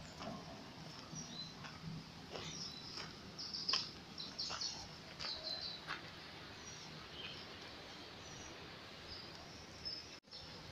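Small birds chirping and calling in short high notes over a steady low background hum. The sound drops out for an instant near the end.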